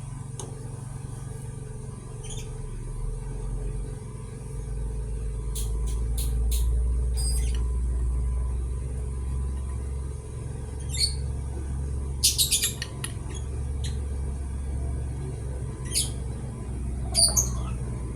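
Short, sharp metallic clicks and squeaks from hand work on engine valve-train parts, coming in small clusters over a steady low rumble.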